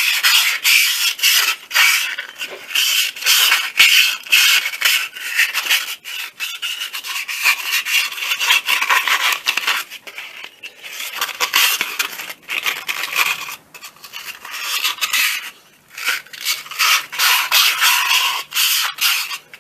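Fine sandpaper rubbed by hand in quick back-and-forth strokes inside an air compressor pump's cylinder sleeve, lightly sanding the bore clean, with a few brief pauses.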